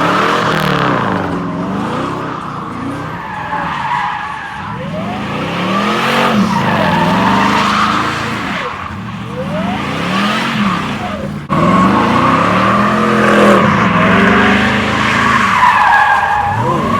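Pickup truck doing a burnout: the engine revs up and drops back over and over while the spinning rear tyres squeal and hiss. There is an abrupt break about eleven seconds in, after which the revving and squealing carry on.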